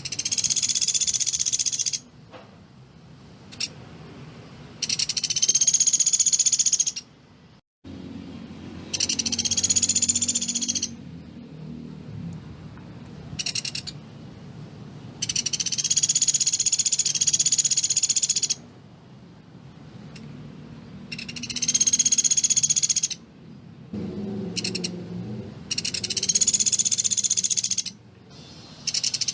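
Pelatuk beras bird calling in dense, rapid high-pitched rattling bursts, each about two seconds long, repeated with short pauses between them.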